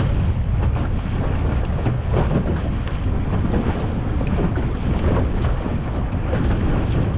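Wind buffeting the microphone on a small boat under way, over the low steady running of its motor and the wash of choppy water.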